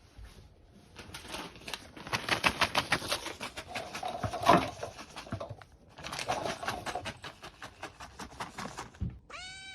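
Cat eating a treat: a fast run of wet clicking and smacking sounds, several a second, with a short pause partway, then a brief rising call near the end.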